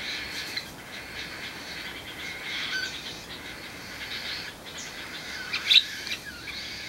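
Pet parakeets and cockatiels chattering and chirping continuously, with one sharper, louder call near the end.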